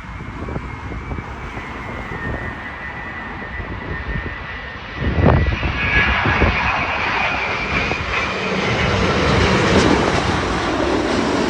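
Jet engines of a Boeing 787-9 Dreamliner, a steady high whine over broad engine noise, growing louder, with a sudden jump in loudness about five seconds in.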